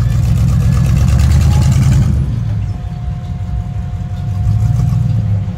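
Off-road 4x4 vehicle's engine running hard, then easing off about two seconds in to a lower, steadier rumble.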